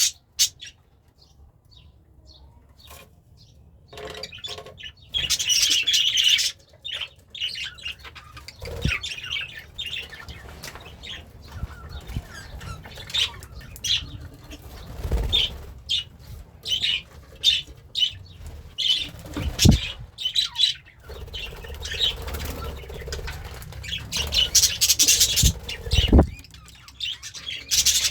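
Budgerigar chirping and warbling in scattered bursts, starting after a few quiet seconds and busiest near the end, with a few dull thumps in between.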